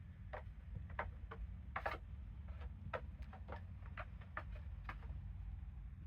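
A baby goat's small hooves clicking on a hard floor in light, irregular taps, two or three a second, over a steady low rumble.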